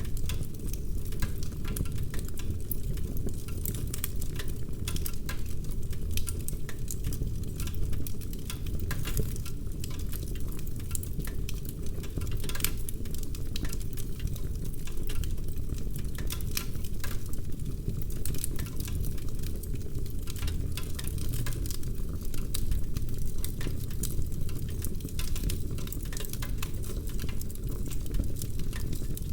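Wood fire crackling in a fireplace: a steady low rushing of the flames under a dense, irregular scatter of sharp pops and snaps.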